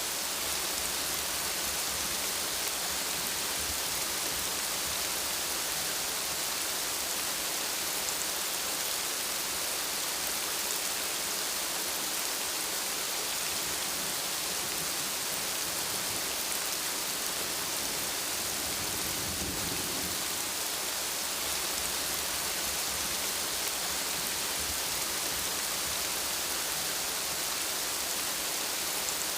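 Steady rain falling, an even hiss of drops on surfaces with no break.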